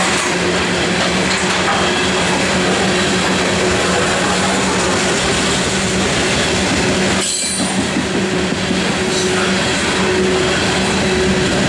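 Loaded coal train hopper cars rolling past, with a steady rumble of steel wheels on rail and a constant low hum. The sound dips briefly about seven seconds in.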